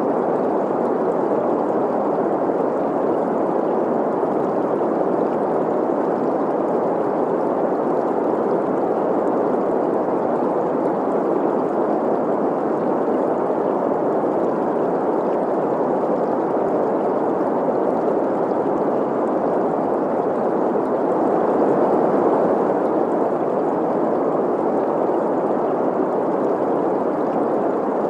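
Steady green noise, a smooth hiss concentrated in the middle range, mixed with a flowing stream, swelling slightly about two-thirds of the way through.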